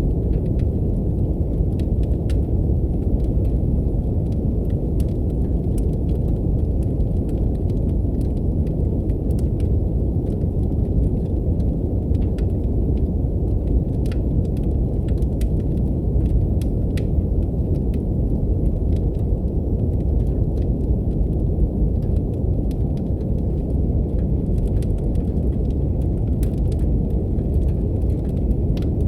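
Steady brown noise, a deep even rumble, mixed with the faint crackle and pops of a wood fire in a fireplace.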